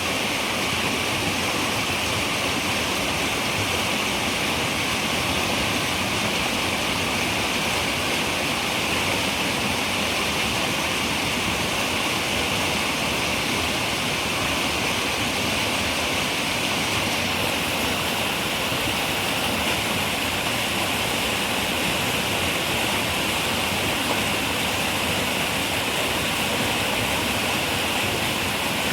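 River water running steadily over rocks: a constant rushing, splashing wash with no breaks.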